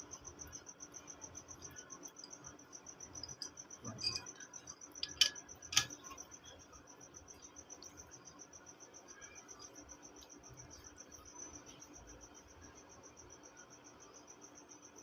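A cricket chirping steadily in a rapid, even, high-pitched pulse, with a low hum beneath. A few sharp clicks come about four to six seconds in.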